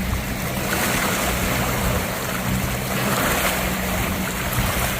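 A boat's engine running steadily, with wind and the rush of water over it.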